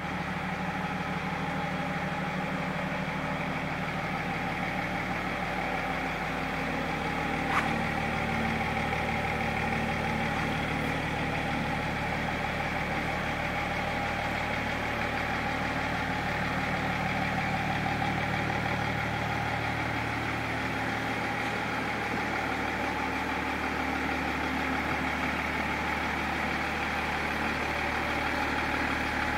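BMW E39 525d's 2.5-litre straight-six turbodiesel idling steadily. One brief click about seven seconds in.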